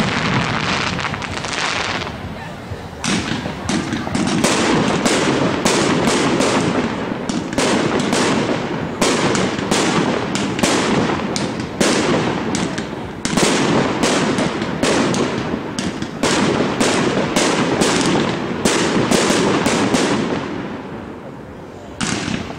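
Aerial fireworks display: a rapid, nearly continuous run of shell bursts and crackling bangs, easing off about two seconds before the end before another bang goes off.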